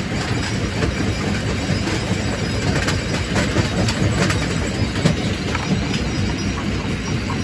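Quarry primary rock crusher running: a continuous heavy rumble with frequent sharp knocks and cracks of stone being broken and tumbling through the machine.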